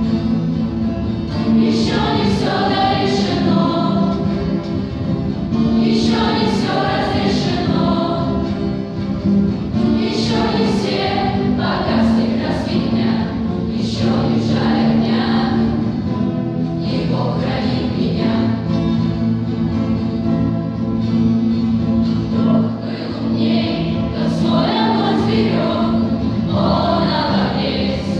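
A vocal ensemble singing a song together over steady sustained instrumental accompaniment.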